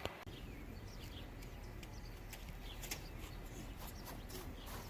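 Faint background with scattered soft ticks and a few short high chirps.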